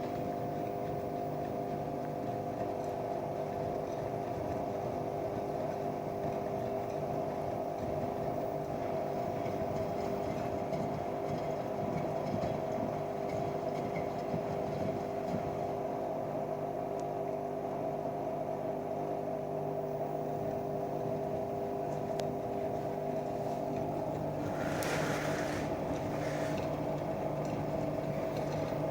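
Washing machine running, its motor giving a steady whine of several tones. About 24 seconds in the tone shifts and a brief rushing sound comes up.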